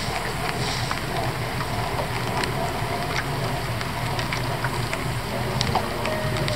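Rain falling on a small open boat, with scattered drops ticking over a steady low rumble.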